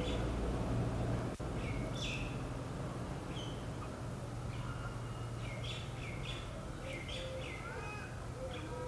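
Small birds chirping in short, repeated calls, more often in the second half, over a steady low background rumble. The sound cuts out for an instant about a second and a half in.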